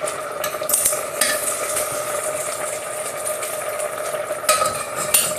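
Risotto cooking in a pan with a steady sizzle, stirred with a spoon that scrapes the pan a few times, about a second in and again near the end.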